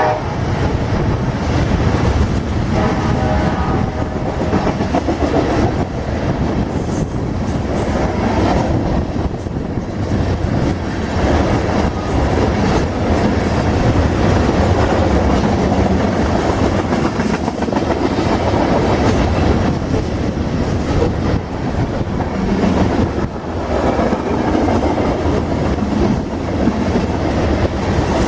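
Freight train of loaded ethanol tank cars rolling past, with a steady heavy rumble and wheels clattering over the rails. A short horn note sounds about three seconds in.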